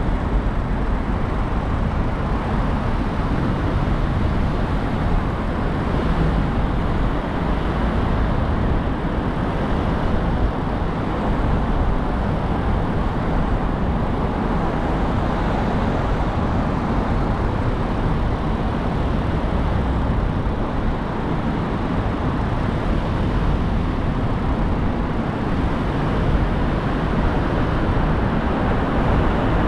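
Car driving on city roads: steady road noise from tyres and engine, even throughout.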